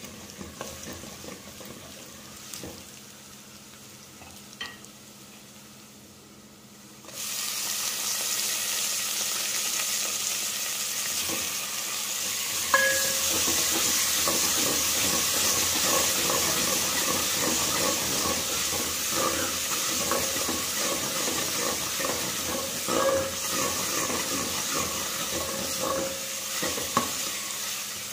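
Chopped garlic frying in hot oil in a metal pot, stirred with a steel ladle. The sizzle jumps suddenly to a loud, dense hiss about seven seconds in, with scrapes and a few sharp clinks of the ladle against the pot.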